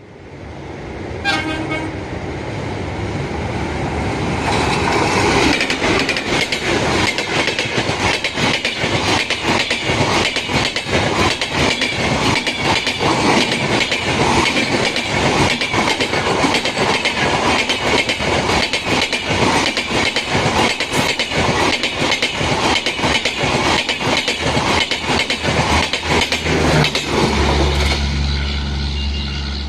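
Train running across a rail bridge: a short horn toot about a second in, then wheels clattering over the rails, building over the first few seconds and easing near the end, when a low steady hum comes in.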